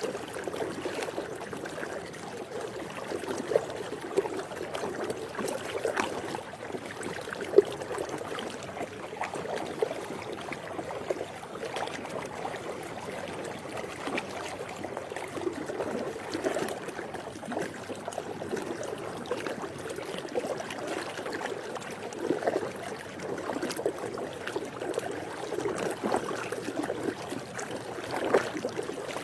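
Swimming pool water lapping and sloshing steadily, with many small splashes and slaps scattered through it, one sharper than the rest about seven and a half seconds in.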